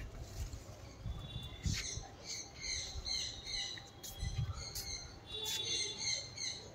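Birds chirping outdoors in quick runs of short, high calls, over a low, uneven rumble.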